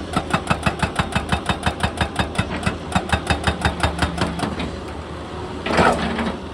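Excavator's hydraulic breaker hammering rock at about eight blows a second over the steady drone of the diesel engine, the hammering dying away about four and a half seconds in. A short loud burst of noise follows near the end.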